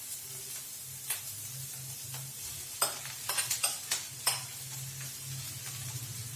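Sliced okra sizzling in a pan of hot oil with fried onions, stirred with a spatula that clicks and scrapes against the pan several times, most busily in the middle. A steady low hum runs underneath.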